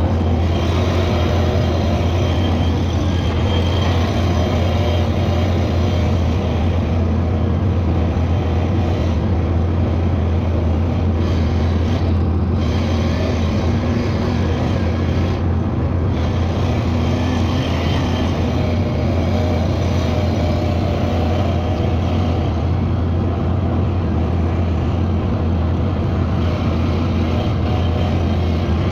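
A vehicle engine running at a steady speed, giving a loud, constant low drone that does not rev up or down.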